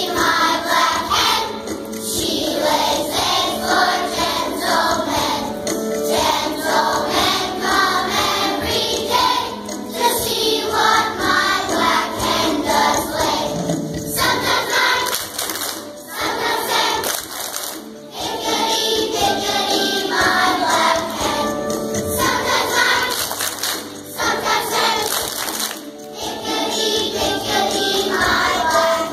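Children's choir of second graders singing a song together in phrases of a few seconds each, with music behind them.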